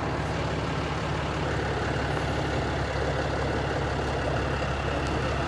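A vehicle engine idling steadily: an even, low rumble.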